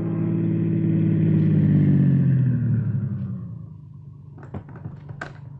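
Car engine sound effect of a taxi running, swelling and then slowing in pitch as it pulls up, dropping to a low idle about three and a half seconds in. A few sharp clicks come near the end.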